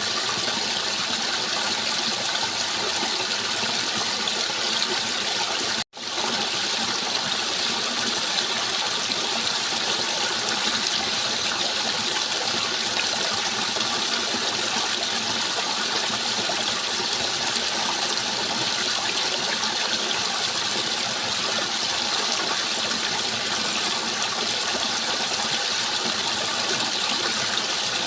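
Steady rushing water, an even, unbroken wash of noise that cuts out for an instant about six seconds in.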